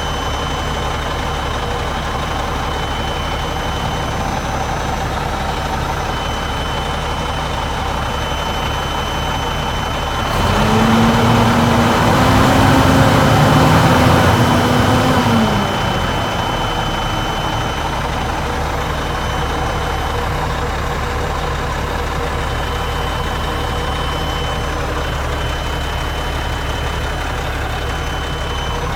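Caterpillar diesel engine of a 2000 Sterling dump truck idling steadily. About ten seconds in it is revved once and held for about five seconds, then settles back to idle.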